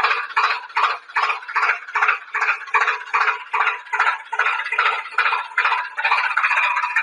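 Rhythmic mechanical ticking, about two to three pulses a second, from a small mechanism; about six seconds in it turns into a more even, continuous whirr.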